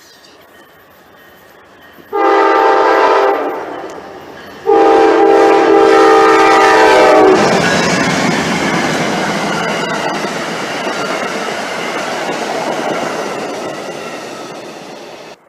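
Amtrak passenger train's multi-note air horn sounding twice, a short blast then a longer one, as the train approaches. The train then passes at speed, a steady rush of wheels on rails that slowly fades and cuts off suddenly near the end.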